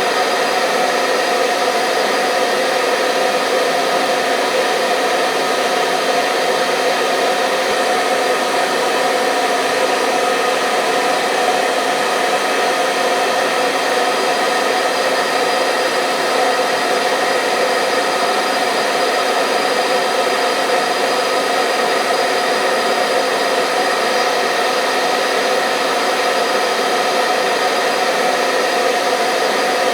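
Hair dryer running steadily: a constant airy whoosh with a steady motor hum, used as white noise for getting infants to sleep.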